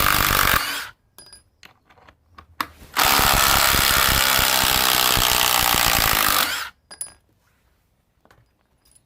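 Ryobi cordless impact driver hammering a screw into wood: a run that stops within the first second, then a second run lasting about three and a half seconds with rapid impact blows, then stopping.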